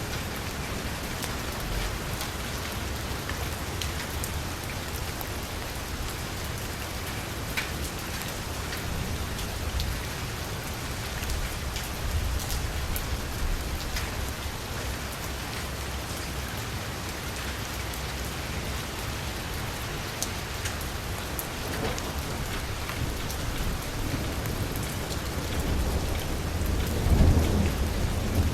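Heavy rain drumming steadily on a vehicle's window and roof, with individual drops clicking sharply now and then. A low rumble of thunder swells near the end.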